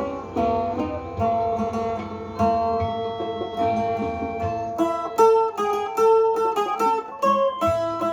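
Sueng, the northern Thai plucked lute, playing a melody in quick single plucked notes. The notes turn brighter and more sharply picked about five seconds in.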